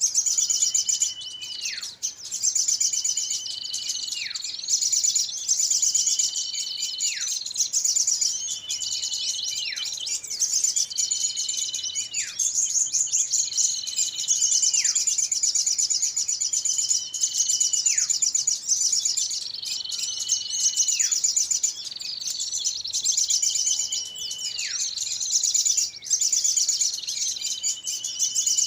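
Bird-lure recording of small songbirds calling noisily: continuous high, busy twittering with a held whistle that drops sharply in pitch, repeating about every two and a half seconds. It is the kind of agitated chorus played to draw small birds in.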